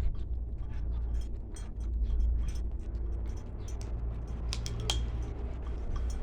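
A cat chewing bones in its food: a run of irregular sharp cracks and crunches, loudest about five seconds in, over a low steady hum.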